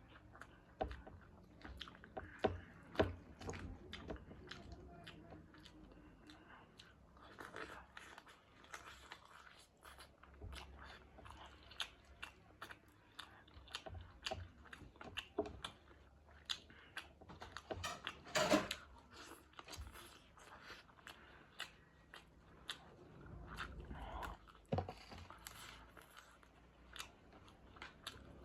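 A person eating chicken wings curry with rice close to the microphone: irregular biting and chewing with short sharp clicks throughout, the loudest cluster about two-thirds of the way through.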